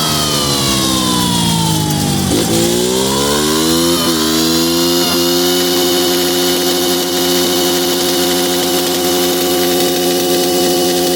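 Honda CG Titan 160 single-cylinder four-stroke engine, fitted with a Jet Motos aftermarket camshaft, running on a dynamometer. Its pitch falls over the first two seconds or so, climbs again, and from about five seconds in holds steady at high revs.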